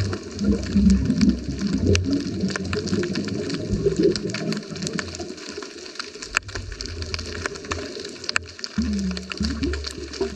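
Underwater sound heard through a GoPro housing: a scuba diver's regulator exhaust bubbles burbling in irregular low bursts, easing off in the second half, with a short buzzing breath near the end. Sharp clicks are scattered throughout.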